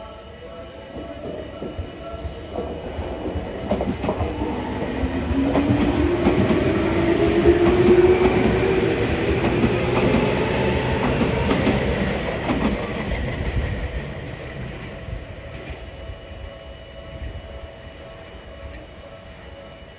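A Tokyu Oimachi Line electric train passes over the level crossing, building up, peaking about halfway and fading away, with wheels clattering over the rail joints. Partway through, a motor whine rises in pitch.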